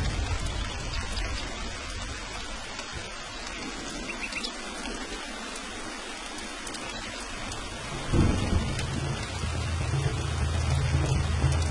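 Steady heavy rain with rolling thunder. The low rumble dies away in the middle, then a sharp thunderclap breaks about eight seconds in and rolls on.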